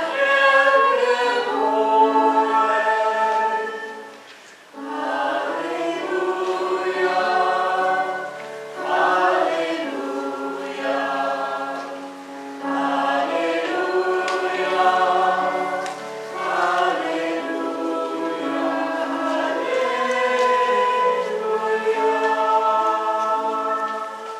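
Church choir singing in several parts, in sustained chordal phrases of about four seconds with short breaks between them, fading out at the end.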